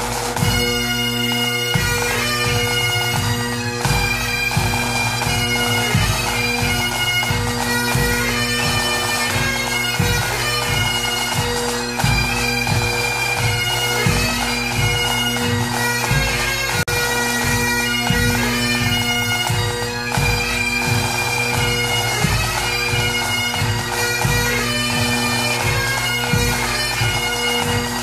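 Bagpipe music: a melody over steady droning notes, with drum beats throughout.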